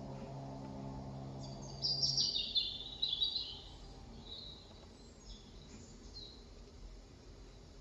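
Small birds chirping in short bursts of high twittering calls, loudest between about one and a half and three and a half seconds in and again briefly around five seconds. A low steady hum underneath stops about two seconds in.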